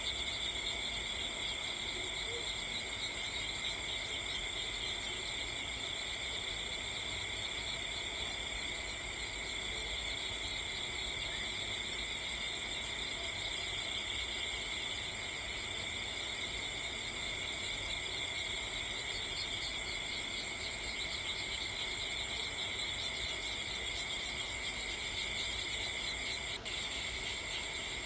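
A steady chorus of insects chirring without a break, in several high-pitched bands held level throughout.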